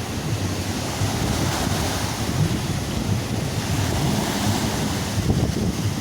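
Storm surf breaking and washing on a sandy beach, with wind buffeting the microphone in a steady low rumble.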